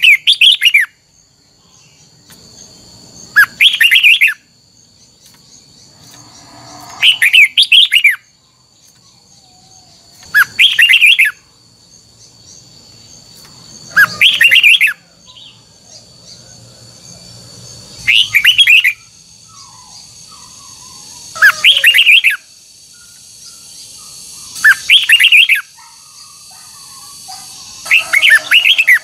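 Red-whiskered bulbul singing loud, short warbled song phrases, each about a second long, repeated about every three and a half seconds.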